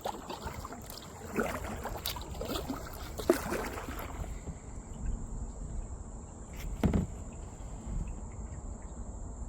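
A steady high-pitched insect drone over low wind rumble, with the scattered knocks and splashes of a kayak paddle. The sharpest knock comes about three seconds in.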